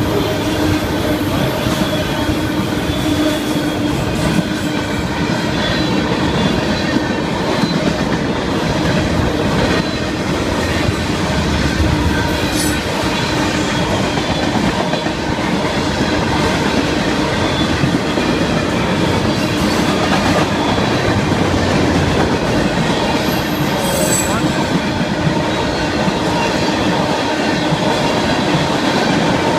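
Florida East Coast Railway freight cars, autoracks then tank cars, rolling past at speed: a steady loud rumble of wheels on rail, with thin, steady squealing tones from the wheels over it.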